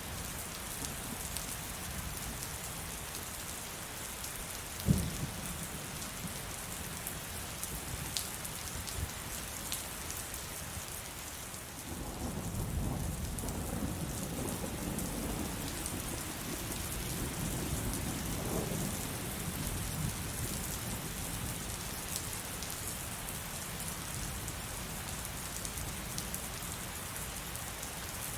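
Steady heavy rain, with one sudden sharp crack about five seconds in. About twelve seconds in, a long low rumble of thunder rolls in and fades out over about eight seconds.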